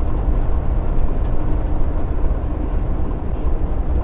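Truck cruising on the road, heard from inside the cab: a steady low rumble of engine and road noise.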